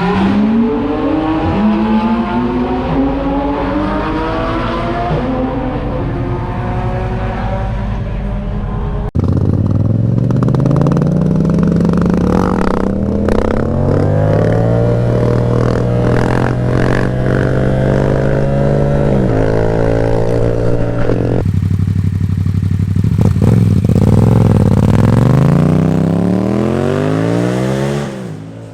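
Yamaha FZ-07 parallel-twin motorcycle engine with an aftermarket exhaust, pulling hard. Its pitch rises through the revs and drops at each upshift. The sound jumps abruptly twice, about a third of the way in and again about three-quarters in.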